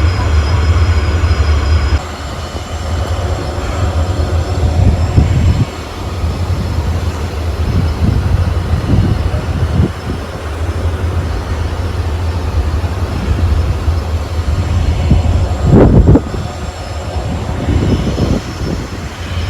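Wind buffeting the microphone on the open deck of a moving cruise ship: a loud, steady low rumble with stronger gusts about five, nine and sixteen seconds in.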